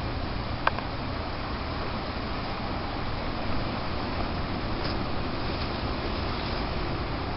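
Steady blizzard wind, with a low rumble of wind on the microphone and one short click under a second in.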